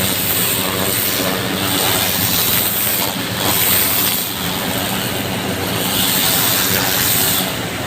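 An engine-driven water pump running steadily, with the hiss of a hose jet spraying water onto the ground to flush away mud and dirt.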